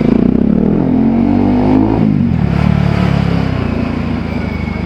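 Single-cylinder Bajaj Pulsar 200 motorcycle engine through an aftermarket Akrapovič exhaust, revving up for about two seconds, then dropping sharply in pitch and running on at lower revs.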